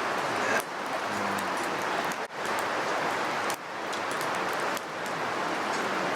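Wood campfire burning, a steady hiss with frequent sharp crackles and pops.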